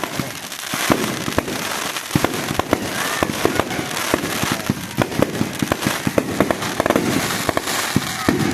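Fireworks going off in a dense barrage: many sharp bangs and pops, several a second, over continuous crackling.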